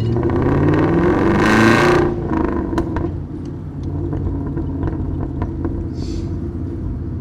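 A 2005 Ford BA XR8 ute's 5.4-litre Boss 260 V8, heard through a straight-piped exhaust, accelerates hard, its pitch rising for about two seconds. It then eases back to a lower, steady note with scattered sharp exhaust crackles.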